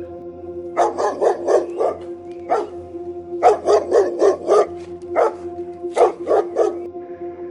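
A dog barking in quick runs of four or five barks, with single barks in between, over a steady droning background tone.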